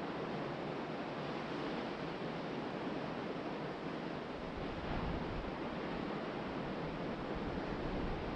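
Steady wash of ocean surf breaking on the beach, with wind.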